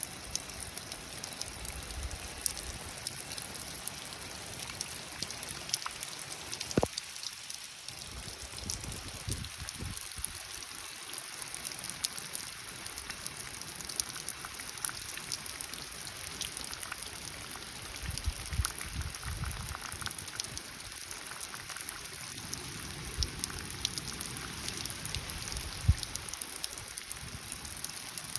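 Light rain falling, a steady hiss of many small drops pattering on a surface. There is one sharp knock about seven seconds in.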